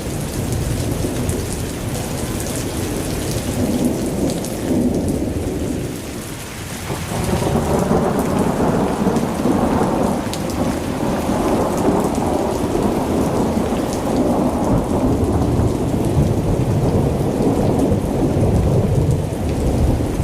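Heavy rainstorm: a dense rush of rain over a deep, continuous rumble of thunder. It eases briefly about six or seven seconds in, then swells louder again.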